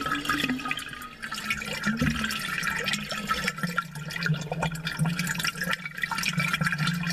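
Aquarium water bubbling: a dense stream of small air bubbles rising and popping, over a steady low hum.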